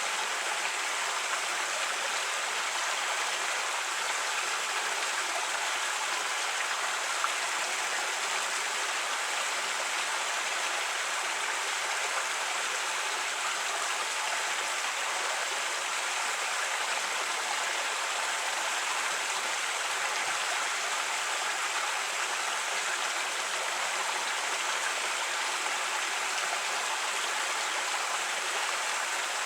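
A creek running over rocks: a steady, even rush of flowing water.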